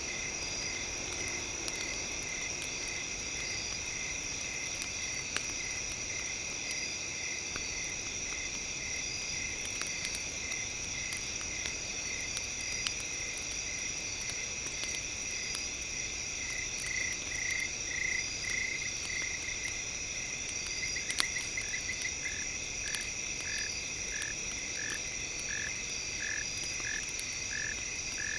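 Night nature ambience: insects trilling steadily at a high pitch, with a frog calling in short repeated notes that become a regular series of about one and a half calls a second in the last third, after a quick trill. Scattered sharp clicks, fitting campfire crackles, sound now and then.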